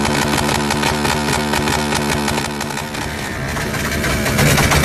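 Yamaha Y15ZR's 150cc single-cylinder four-stroke engine running at a steady raised rev. About three seconds in it climbs in pitch and gets louder as the throttle is opened.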